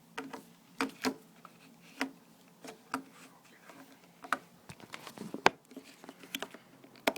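Irregular plastic clicks and taps from handling a BlackBerry phone while its battery is fitted back in, with a sharp double click near the end.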